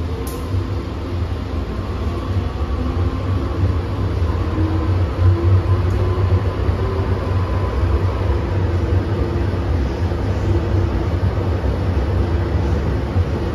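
MTR Tsuen Wan Line M-train running, a steady low rumble with a motor tone that rises slowly in pitch over the first few seconds.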